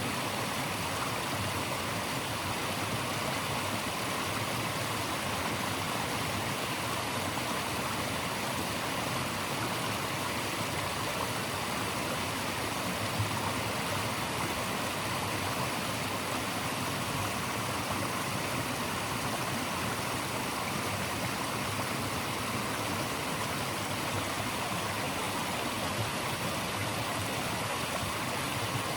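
Running water flowing steadily, an even rushing noise with no breaks.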